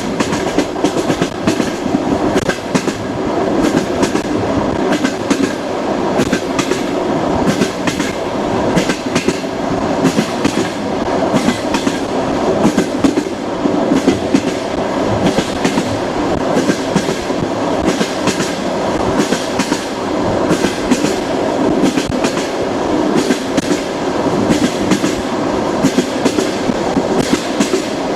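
Train wheels rolling on the rails: a steady rumble with frequent, irregular clickety-clack knocks from the wheels over the track.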